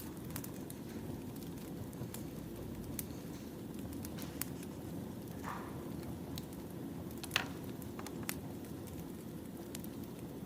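Wood fire crackling: a steady low rumble of burning logs with scattered sharp pops and snaps, one louder pop about seven seconds in.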